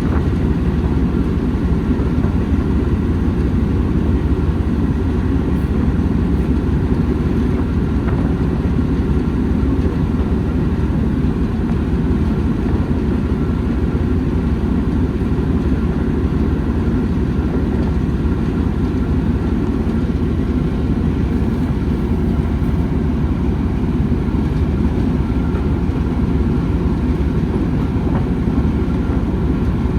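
Steady low rumble of a train running.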